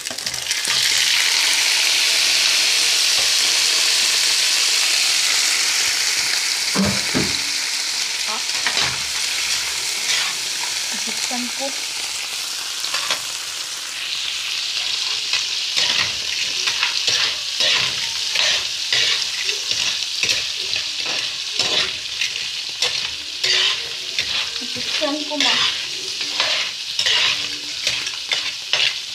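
Whole crabs hitting hot oil in a wok set off a sudden loud sizzle that slowly dies down. From about halfway on, a metal spatula stirs and scrapes them around the wok, giving rapid repeated scraping strokes over a steady sizzle.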